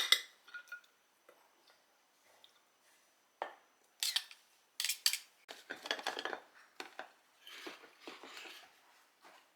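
Dishes and cutlery being handled: scattered sharp clinks, several close together in the middle, with scraping and handling noise between.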